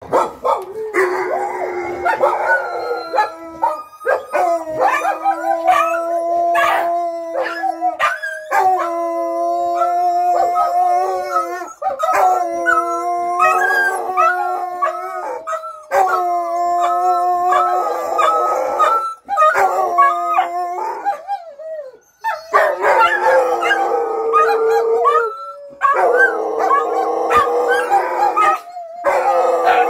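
A Rottweiler, a German Shepherd and a McNab dog howling together, several long drawn-out howls overlapping, with short breaks every few seconds; they are howling in answer to an ambulance siren.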